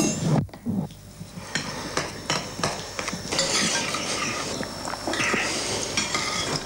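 Utensils clinking and knocking against dishes or a pot, a run of irregular short clicks.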